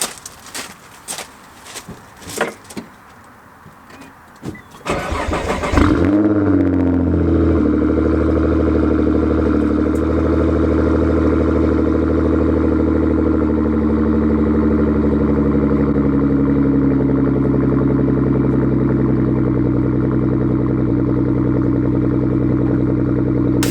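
Nissan GTR R35's straight-piped twin-turbo 3.8-litre V6 on a cold start: about five seconds in, the starter cranks briefly, the engine catches with a loud flare, and within a couple of seconds it settles into a steady idle. Before the start there is a series of sharp knocks.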